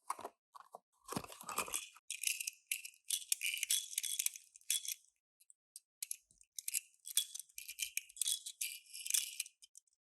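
Small die-cast toy cars and their packaging being handled: irregular clicking and light clinking in quick bursts, with a short dull knock about a second in.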